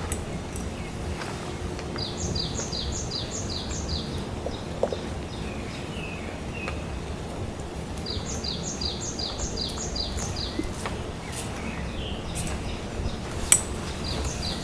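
A small bird calling in two quick series of about seven short, high, falling chirps, about three a second, a few seconds apart, over a steady low outdoor hiss. A few faint clicks come near the end.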